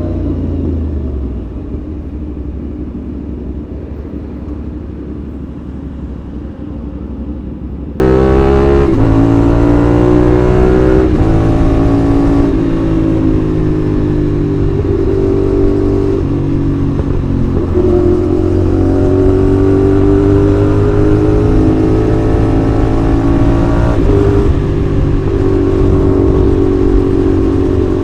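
CFMoto 450SR's 270-degree-crank parallel-twin engine: a lower, quieter rumble at first, then suddenly much louder as the bike pulls hard. The engine note climbs and drops back several times as it accelerates through the gears.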